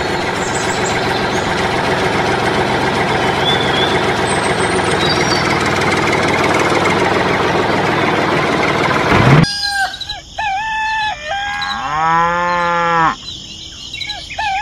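A steady engine drone, the sound of the miniature tractor driving, runs for about nine seconds and cuts off abruptly. Farm-animal calls follow: short clucking chicken calls and, about twelve seconds in, a cow's moo that rises and falls in pitch.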